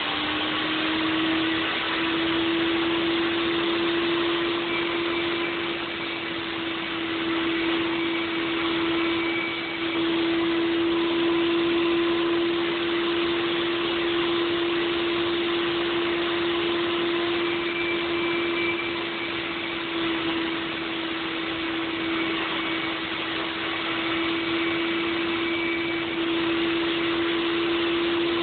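Table saw running steadily with a constant motor-and-blade whine while sheets of EIFS foam insulation are fed through it and cut into 6-inch bands. Small dips in loudness come and go as the cuts go on.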